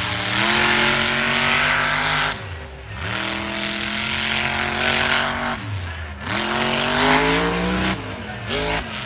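Monster truck engine revving hard three times, each rev climbing quickly and holding high before dropping off, then a short blip of throttle near the end.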